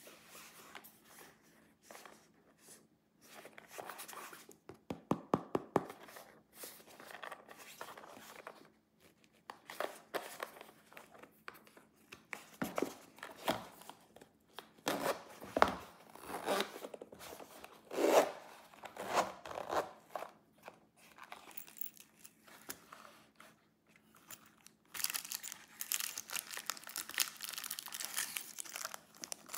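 Packaging being opened by hand: irregular rustling, tearing and crinkling with taps and clicks, and a quick run of clicks about five seconds in. Near the end it turns into a few seconds of dense, sharp crinkling.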